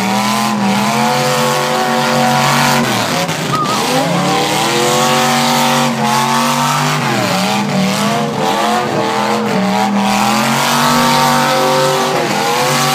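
Eight-cylinder demolition derby car engines revving hard, the pitch climbing and falling again several times as the cars accelerate and back off.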